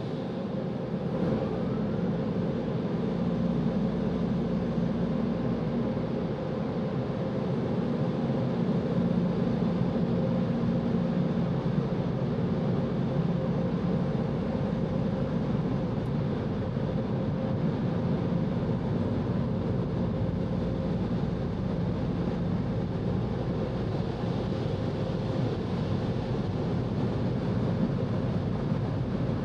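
Touchless automatic car wash machinery running, heard from inside the car's cabin: a steady roar with a low hum that does not change.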